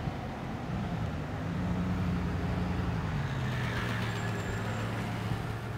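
Bugatti Veyron's 8.0-litre quad-turbo W16 engine pulling away at low revs. Its low engine note rises about a second in, then settles to a lower steady note about three seconds in.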